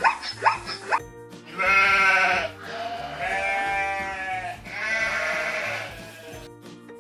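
Three drawn-out bleats, the middle one the longest, over background music with a steady low beat. A few short falling yips sound in the first second.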